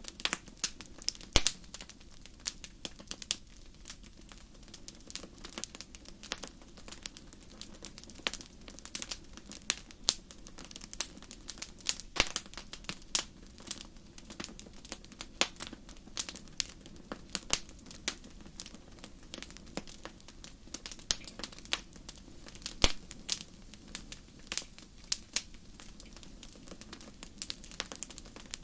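Fireplace fire crackling: irregular sharp pops and snaps, some louder than others, over a low steady rumble.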